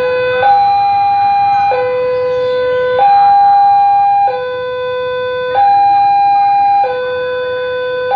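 Electronic two-tone siren alternating steadily between a low and a high tone, each held for about a second and a quarter.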